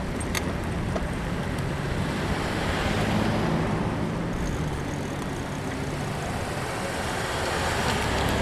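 Wind rushing over the microphone of a moving bicycle, with road traffic going by and the low hum of passing car engines.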